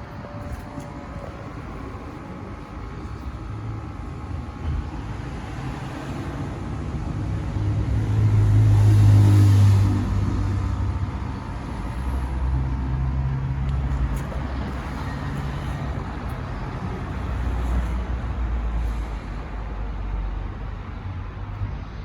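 Volkswagen Crafter's 2.0 TDI four-cylinder diesel engine running, swelling louder for a couple of seconds about eight seconds in before settling back.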